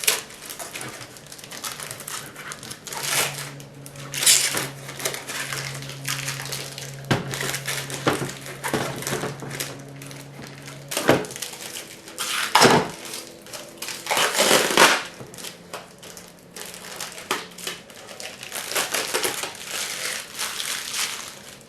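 Plastic protective film being peeled and crinkled off a new robot vacuum's charging dock, in irregular crackling bursts.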